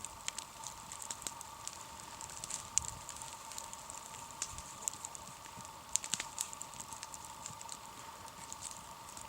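Campfire crackling, with irregular sharp pops and snaps from the burning wood.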